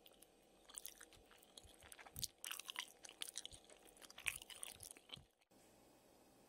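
A person chewing soft cheese-sauced dumplings close to the microphone: irregular mouth clicks and smacks for about five seconds, cutting off suddenly.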